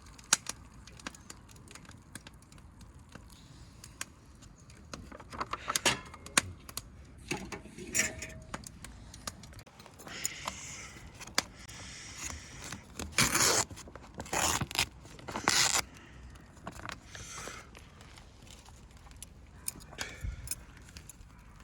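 Objects being handled: a series of sharp clinks and knocks, with longer scraping or rustling runs, the loudest a little past the middle.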